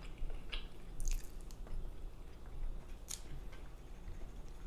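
Close-miked mouth sounds of someone eating: chewing and smacking, with a few short sharp clicks, the clearest about a second in and about three seconds in.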